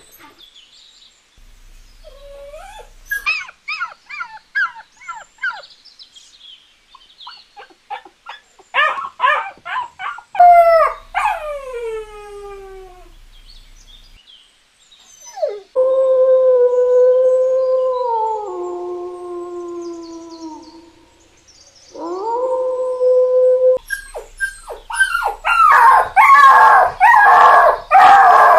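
Canines yipping and whining in short calls that fall in pitch, then giving long howls that step down in pitch, one rising into a held note. In the last few seconds several voices yip and howl over one another, the loudest part.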